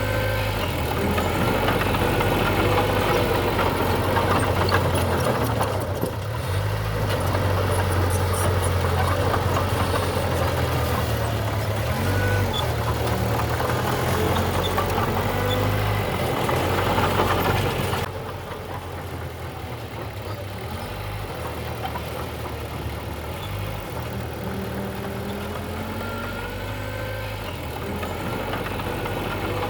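Heavy diesel engine of earthmoving machinery running at work, its deep drone rising and falling with load. The sound drops suddenly and stays quieter from about eighteen seconds in.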